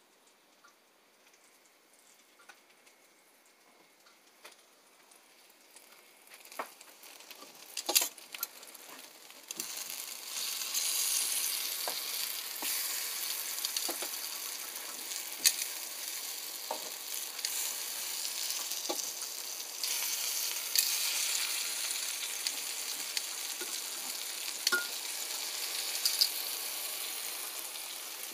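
Slices of puffball mushroom frying in a skillet: a steady sizzle that sets in about a third of the way through, after a quieter start with a few clicks. Sharp clicks of metal tongs against the pan sound over the sizzle now and then as the slices are turned.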